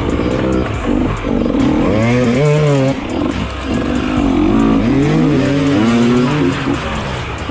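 Dirt bike engine revving, its pitch repeatedly rising and falling with the throttle.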